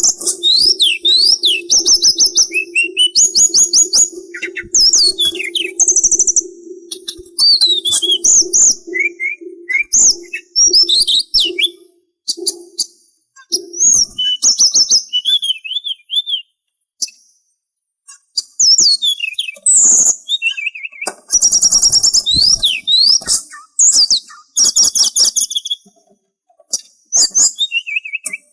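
Sulingan songbird singing: rapid high whistled notes and sweeping trills in busy phrases, broken by a couple of short pauses. A steady low hum runs underneath for about the first half, then stops.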